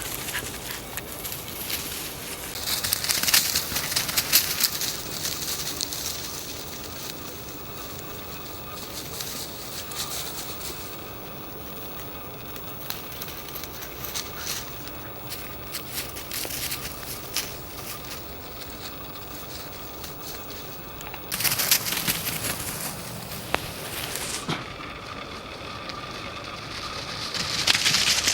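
Crunching and crackling footsteps on the forest floor during a walk, with scattered sharp snaps and three louder stretches of rustling and crunching.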